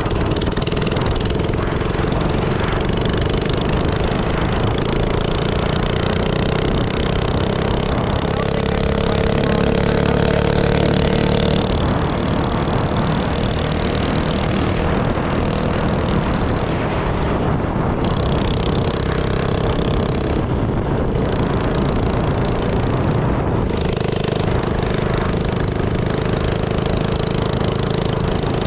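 Minibike's small engine running steadily while being ridden, its pitch rising a little about eight to twelve seconds in and then settling back.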